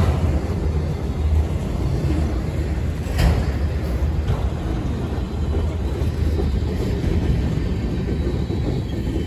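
Freight train rolling past with a steady low rumble, and one sharp clank about three seconds in.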